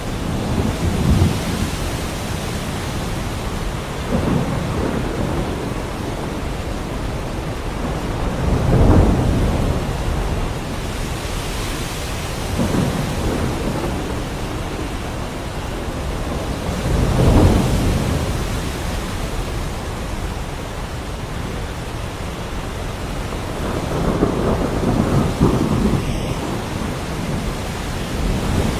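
Heavy rain falling steadily, with rolls of thunder rumbling in about six times; the loudest come about nine and seventeen seconds in.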